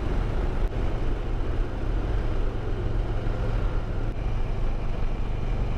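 Harley-Davidson V-twin engine running steadily under way, with wind noise over the microphone.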